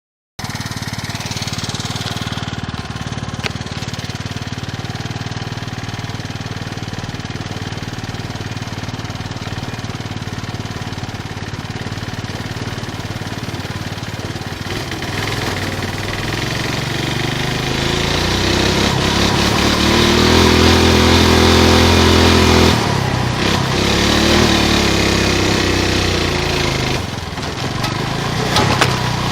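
Chinese 420cc Honda GX-clone single-cylinder four-stroke engine, with lightened valves and piston, running in a Suzuki LT185 ATV. It runs steadily at first, then its speed climbs in the second half and is held high twice with a short drop between, easing off near the end.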